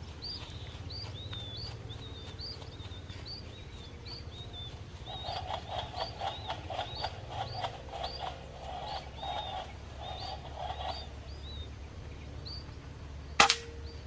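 Munias calling over a rice field, with short high chirps repeating about twice a second and a louder rhythmic calling joining for several seconds in the middle. Near the end comes a single sharp crack of a pellet air rifle shot.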